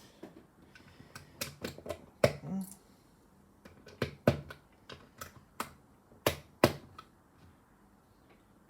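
Small plastic Lego pieces clicking and clattering as they are handled: a quick run of sharp clicks in the first couple of seconds, then single clicks spaced out, stopping about seven seconds in.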